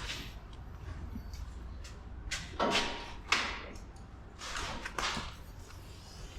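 Short bursts of air hissing out as the truck's front suspension air bags are let down, several quick releases in a row.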